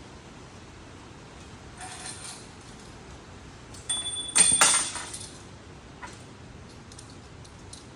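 Metal objects clinking together in a workshop, with a loud, ringing metallic clank about halfway through, after a softer rustle.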